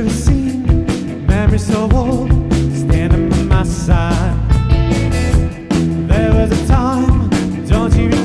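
Rock band playing live: a full-band passage with a steady drum beat, bass and electric guitars, and a wavering lead melody line above.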